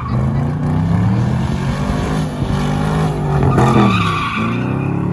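A vehicle engine revving up and down repeatedly, its pitch rising and falling several times.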